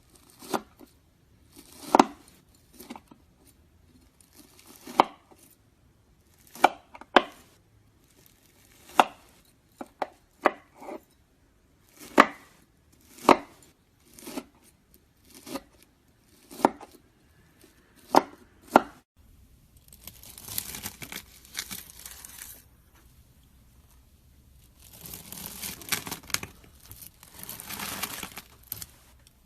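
Knife cutting into crunchy slime: a series of sharp, crisp crunching cuts about one a second, then near the end a longer stretch of continuous crackling crunch.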